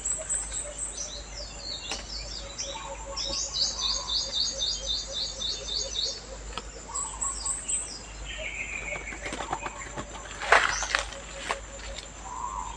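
Lovebirds chirping, with many high chirps and a fast string of repeated notes, plus a short loud flutter of wings near the end.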